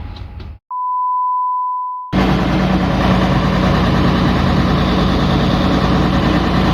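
A steady electronic beep tone for about a second and a half, then a combine harvester's engine running steadily from about two seconds in.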